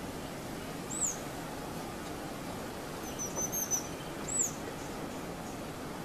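High, thin bird calls over a steady rush of water trickling over rock: a single arched note about a second in, a quick cluster of short chirps a little past the middle, then another arched note.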